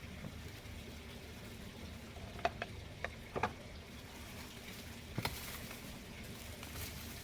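Garden soil being dug and turned by hand, a steady gritty rustle with a few short sharp knocks about halfway through.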